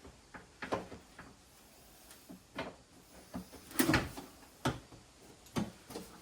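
Scattered knocks and clicks from a folding table's collapsible legs and frame being worked and forced as it is folded up, with the loudest knock about four seconds in.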